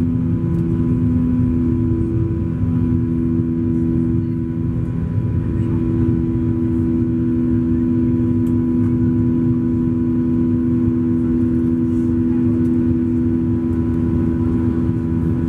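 Cabin noise inside a Boeing 737-800 with CFM56-7B turbofans: a steady engine drone and low rumble with a constant two-note hum.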